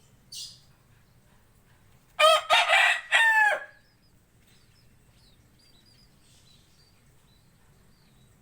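A rooster crowing once, loud, about two seconds in, a pitched call of several linked segments lasting about a second and a half. Before it comes a brief high hiss, and after it come faint short high chirps, likely from the lovebirds.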